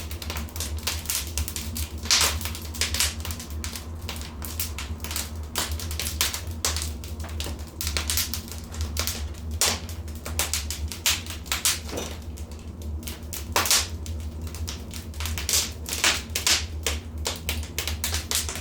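Wood fire in a fireplace crackling, with irregular sharp snaps and pops, several a second, over a steady low rumble.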